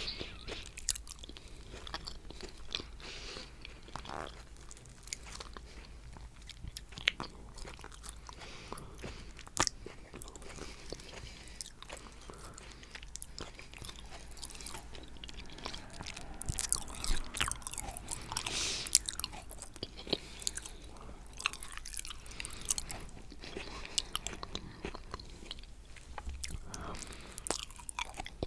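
Close-miked eating sounds of coconut cheesecake: wet chewing, lip smacks and clicky mouth noises, with soft crunches, probably of the coconut flakes, going on throughout and busiest in the middle.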